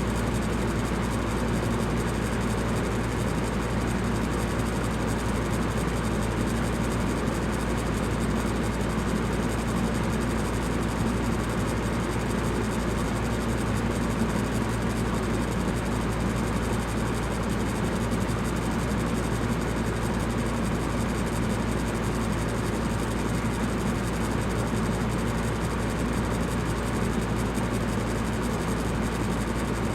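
Electric fan running steadily: a constant airy rush with a low hum underneath.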